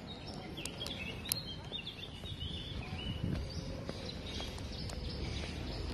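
Small birds chirping in short, high calls, several in the first two seconds, over a steady low rumble.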